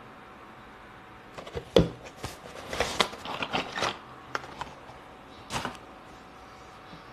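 Handling noises: a quick run of clicks, knocks and clatters, with a sharp knock about two seconds in and another short cluster later on.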